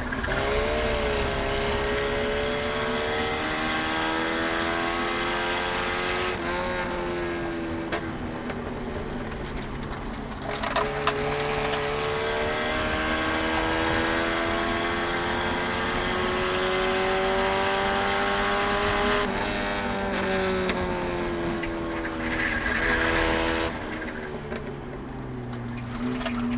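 Eagle Talon's engine under hard acceleration on a track, heard inside the cabin. Its pitch climbs, drops back at gear changes about six and ten seconds in, climbs through a long pull, then falls as the car slows. A brief squeal comes near the end, before it climbs again.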